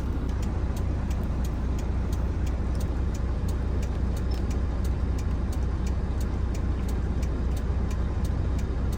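Semi truck's diesel engine idling, a steady low hum heard from inside the cab, with an even ticking about two to three times a second over it.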